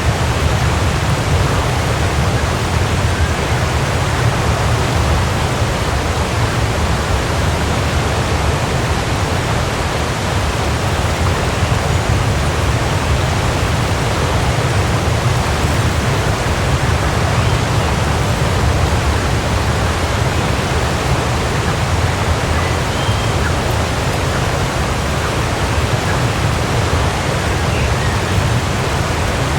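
Waterfall: a steady, loud rush of falling water, deepest in the low end.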